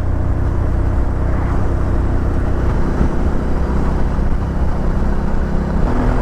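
Suzuki V-Strom 650 XT's V-twin engine running at a steady riding speed under a heavy low rumble of wind and road noise. Its note shifts slightly lower near the end.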